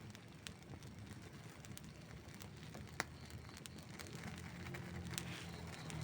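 Wood fire crackling, with many small scattered pops and a sharper pop about three seconds in. A low hum rises underneath near the end.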